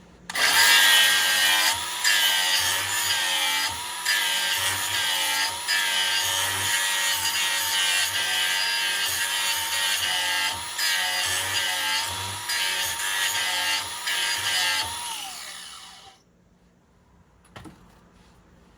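Electric grinder grinding the cutting edge of a steel mulching lawnmower blade: a steady motor whine under harsh grinding noise, easing off briefly several times. About 15 seconds in it is switched off and winds down with a falling whine.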